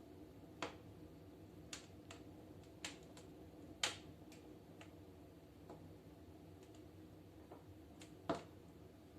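Firewood burning in a fireplace stove, crackling with sharp pops at irregular intervals, two of them louder than the rest, over a low steady background.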